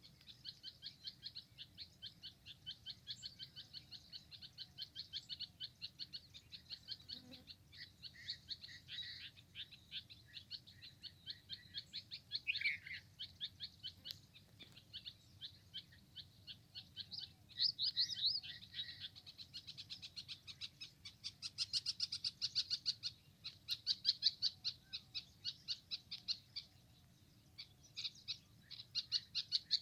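Songbirds chirping: a fast, unbroken run of short high chirps, with lower calls now and then and louder bursts of chirping in the second half.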